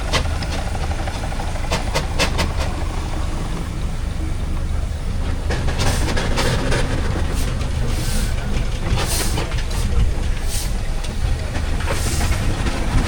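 Steam traction engines running: a steady low rumble with hissing and scattered short puffs and knocks.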